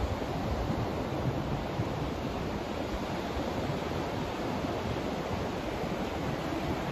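Continuous, unchanging white noise played as a sleep sound: a steady, even rush, fuller in the low end than in the hiss, with no breaks or events.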